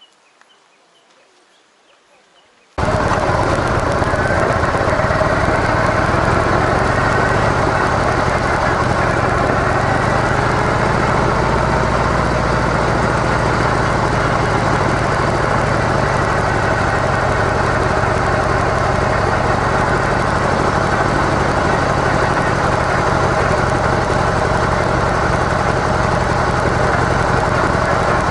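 Faint outdoor quiet, then about three seconds in a Harley-Davidson CVO Softail's air-cooled V-twin with stock mufflers cuts in suddenly and runs steadily and loudly.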